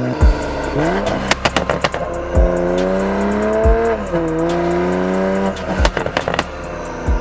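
2020 MKV Toyota Supra's exhaust crackling and popping in rapid clusters, about a second in and again near six seconds, with the engine revving up just before the first cluster. Background music plays under it.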